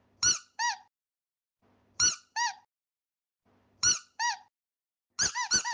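Short high-pitched squeaks in pairs, three pairs about two seconds apart, then a quick run of squeaks near the end.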